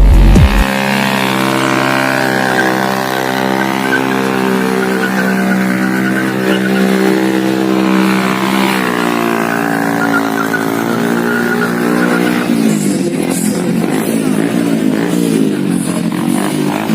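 Superbike engine running at high revs, its pitch dipping and climbing back about halfway through, then turning rougher and more uneven for the last few seconds.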